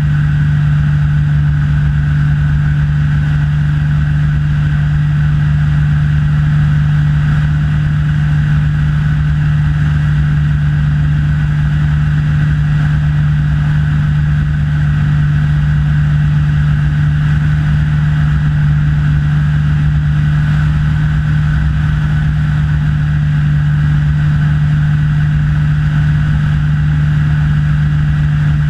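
Rans S6 light aircraft's propeller engine running at steady cruise power, a constant drone with a strong low hum that does not change.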